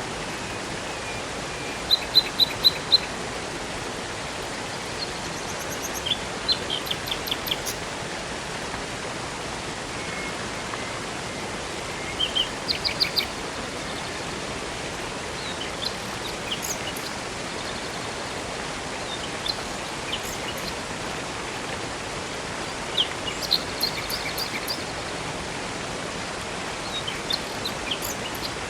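Rushing water of a river and waterfall as a steady hiss, with songbirds chirping over it in short runs of quick high notes. The loudest is a run of four sharp chirps about two seconds in, with further bursts of chirping scattered through.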